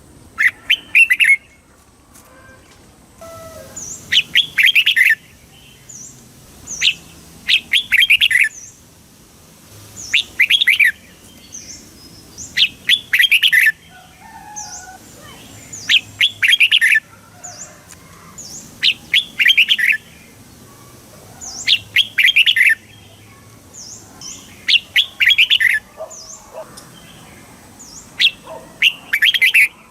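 Red-whiskered bulbul singing: short, bright warbled phrases repeated about every three seconds, with faint high chips in between.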